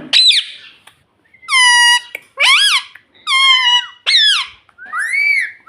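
Pet parrot giving a series of about six loud, shrill calls, each about half a second long and swooping up and down in pitch.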